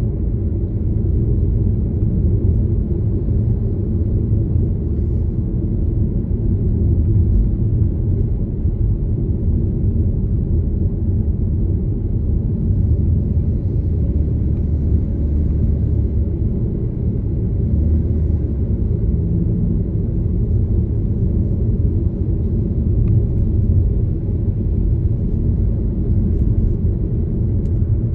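Steady low rumble of a car driving along a road: engine and tyre noise, even throughout.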